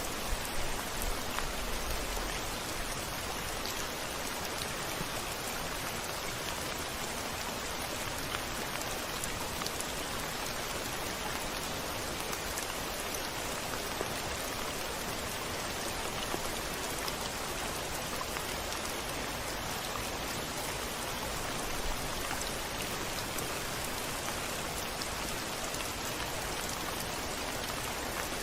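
Steady rain falling, an even hiss dotted with sharp drop ticks. A faint low rumble sits under it during the first two seconds.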